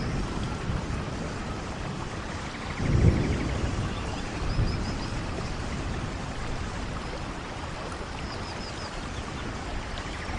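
Steady rushing noise of a vehicle driving in rain on a forest road, with a low thump about three seconds in and a few faint high chirps twice.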